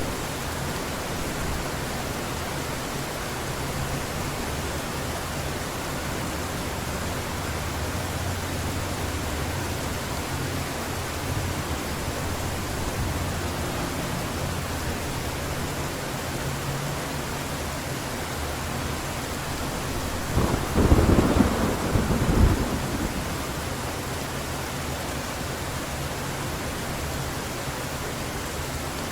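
Heavy rain falling steadily, with low rolling thunder partway through and a loud, sharp crack of nearby thunder about two-thirds of the way in that fades within a few seconds.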